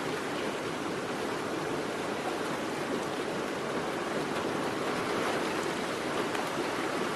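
Steady rushing storm noise: an even hiss without breaks or pitched tones.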